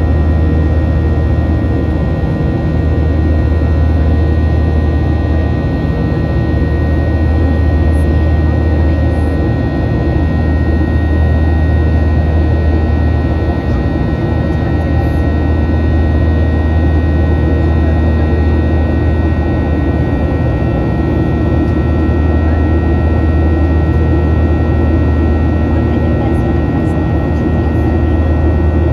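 Steady cabin noise of a Boeing 737-800 in flight: a loud low drone from its CFM56-7B jet engines and airflow, with a couple of faint steady whining tones over it.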